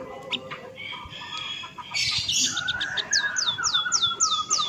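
Birds chirping, with a rapid run of quick, falling whistled notes in the second half.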